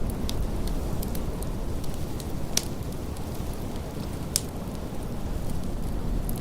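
Wood fire crackling in a fireplace, with scattered sharp pops, two of them louder, over a steady low rush of blizzard wind.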